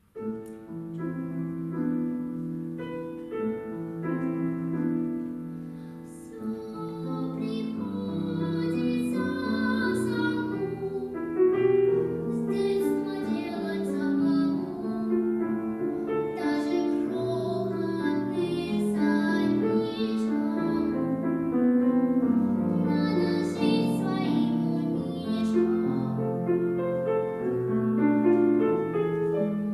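A young female voice singing with piano accompaniment. The piano begins alone, starting suddenly, and the voice comes in about seven seconds in.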